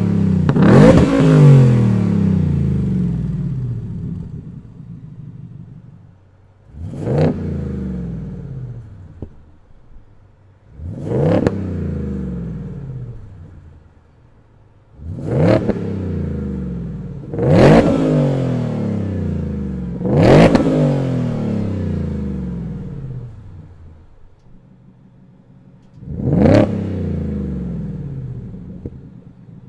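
Supercharged 5.2-litre V8 of a Ford F-150 Raptor R with an AWE SwitchPath cat-back exhaust, revved in about seven sharp blips. Each blip climbs quickly and then falls slowly back to idle, with longer idle gaps between some revs.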